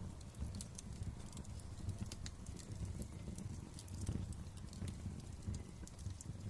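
Wood fire crackling in a fireplace: many small, sharp, irregular pops and snaps over a steady low rumble of the flames.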